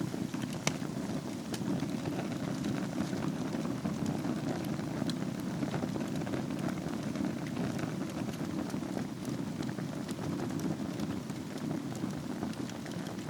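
Wood fire burning in a fireplace over a bed of embers: a steady low rush of flame with scattered sharp crackles and pops, one louder pop just under a second in.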